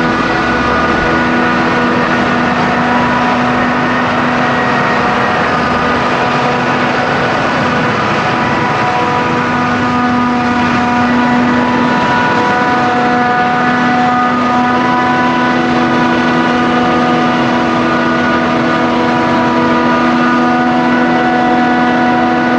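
Claas Jaguar self-propelled forage harvester running steadily while chopping maize: a constant loud machine drone with several held tones over it, one of which briefly drops out and returns about halfway through.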